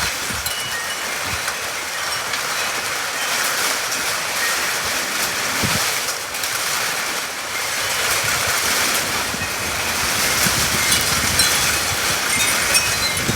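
Heavy downpour: a steady hiss of rain, with scattered drops and splashes heard through it.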